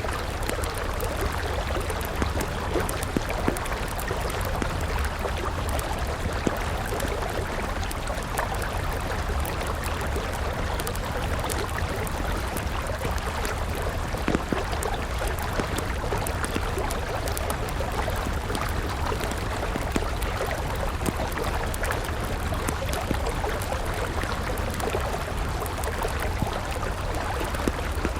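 River water flowing steadily, mixed with the light, irregular crackle of a wood campfire, including one slightly louder pop about halfway through.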